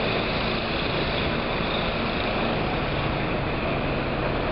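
Steady engine and street noise from a city bus stuck in deep snow, running without change.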